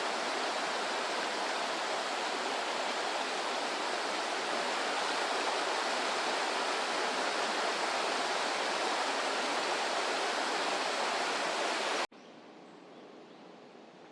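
Steady rush of flowing water, cutting off suddenly about twelve seconds in to a much quieter background.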